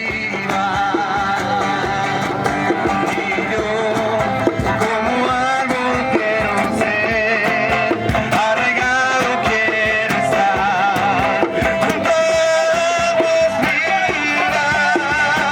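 A group singing a Spanish worship song with guitar accompaniment, in a steady rhythm.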